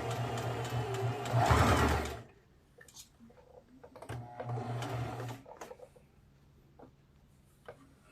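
Electric sewing machine stitching a seam, running for about two seconds, stopping, then running again briefly about four seconds in; after that only a few faint clicks as the fabric is handled.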